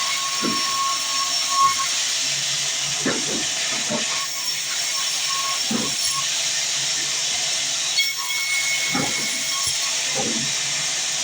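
Sawmill band saw running through a log, a steady loud hiss of blade on wood.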